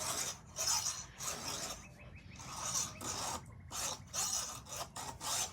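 A file scraping across the cutting teeth of a chainsaw chain in a run of repeated strokes, about one or two a second: hand-sharpening the chain to take the burrs off the teeth.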